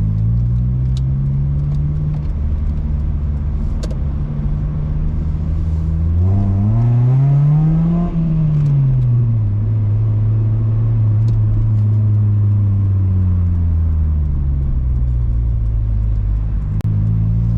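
Honda Civic EP2's 1.6-litre four-cylinder engine through an aftermarket cat-back exhaust, running steadily under way. About six seconds in the revs climb for a couple of seconds, then fall back and settle into a steady cruise.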